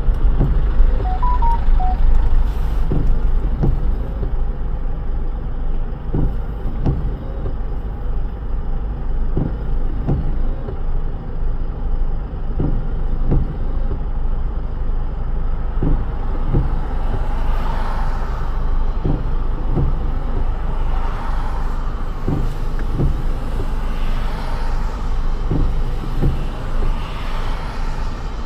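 Car driving in the rain, a steady low road rumble with soft knocks about once a second and a noisy tyre hiss on the wet road swelling in the second half. A few short beeps about a second in.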